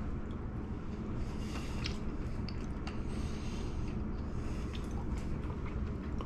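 A man chewing a mouthful of seared jack crevalle dipped in ponzu sauce, with faint wet mouth sounds and small clicks, over a steady low hum.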